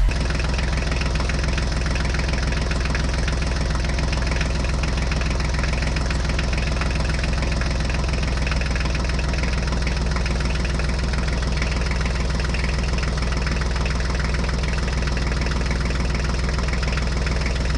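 Engine idling steadily with a fast, even knock that does not change in speed or level.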